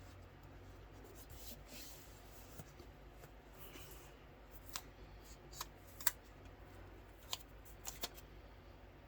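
Packaging being opened by hand: soft rustling, then about six sharp clicks or snips in the second half.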